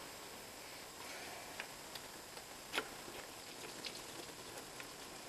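Light, scattered clicks and taps of hand tools and metal parts being handled during engine work, with one sharper click near the middle.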